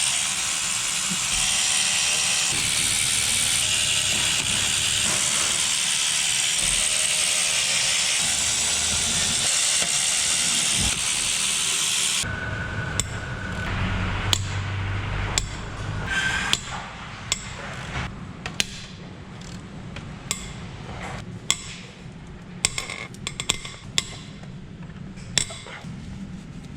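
A loud, steady hiss for about the first half, cutting off suddenly. Then hand tools clicking, ratcheting and knocking against metal engine parts, in scattered sharp clicks.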